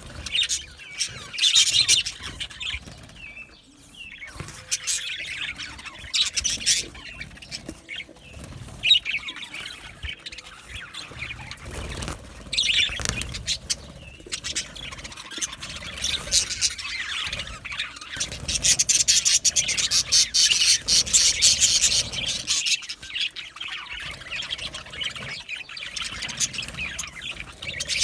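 Budgerigars chirping and warbling in a steady stream of rapid high chirps, busiest and loudest about two-thirds of the way through.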